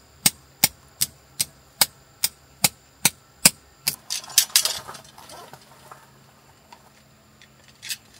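A tent stake being hammered into the ground: a steady run of sharp knocks, about two and a half a second, stopping about four seconds in. A brief rustle and clatter follows.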